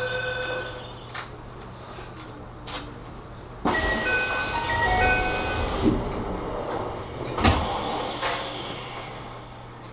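Train door chime: a short electronic melody of stepping notes over a sudden hiss about midway, then a sharp clunk a couple of seconds later as the doors shut, at a station stop before departure.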